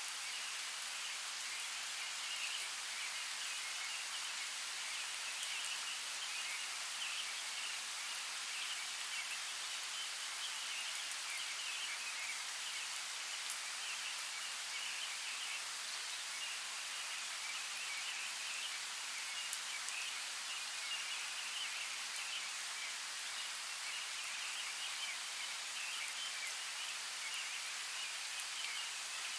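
Steady rain falling, an even hiss with fine crackling patter and an occasional sharper drip.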